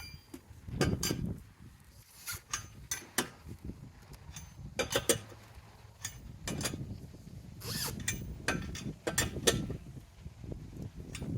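Hand tools working on a car wheel during a tyre change: irregular metallic clicks, scrapes and ratcheting, in separate bursts a second or two apart.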